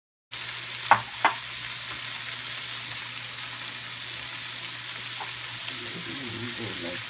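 Crabs frying in a nonstick pan with sautéed garlic, onion, tomato and ginger: a steady sizzle that starts just after the beginning. Two sharp knocks come about a second in.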